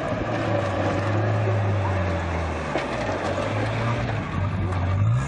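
Off-road rally 4x4 engines running hard as the vehicles race past on a dirt track. The engine note rises sharply near the end as one revs up.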